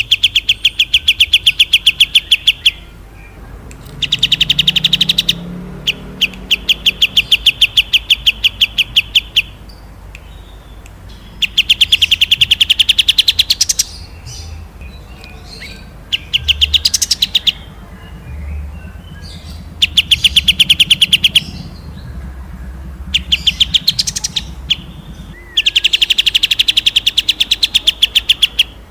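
Small songbird giving fast, rattling rolled trills of about a dozen sharp notes a second, in bouts of two to four seconds repeated over and over with short chirps between them; a bird-song recording played for training cage birds.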